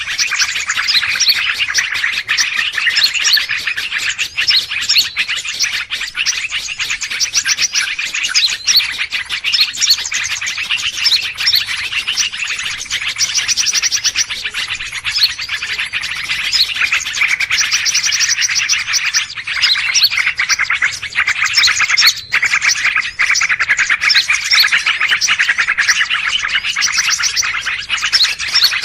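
Dense, unbroken chorus of many small birds chirping and trilling rapidly over one another: a noisy bird-lure recording meant to draw wild birds in.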